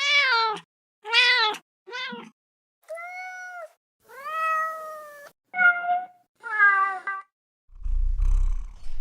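A domestic cat meowing seven times in a row, the calls varying in length and rising and falling in pitch, the longest about a second. Near the end there is a low rumble.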